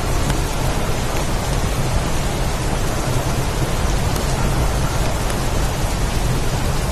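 Heavy rain pouring steadily in a storm, an even hiss with a low continuous rumble underneath.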